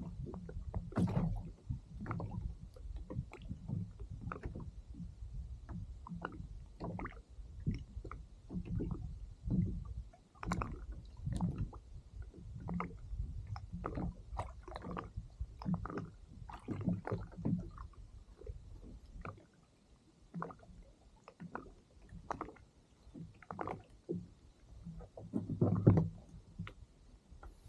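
Small waves lapping and slapping against the hull of a drifting fishing kayak, with irregular low knocks and gurgles one or two times a second and a louder slap near the end.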